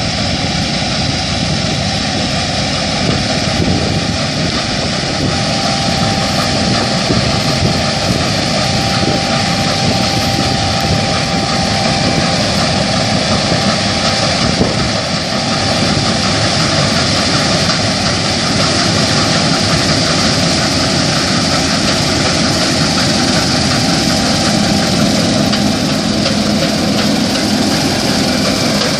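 New Holland CR8080 combine harvester running steadily, its engine and machinery making a continuous dense noise with a faint high whine.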